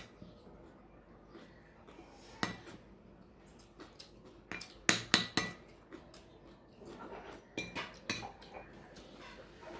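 Cutlery and dishes clinking now and then as a meal is eaten, in scattered short taps, with a louder cluster about five seconds in.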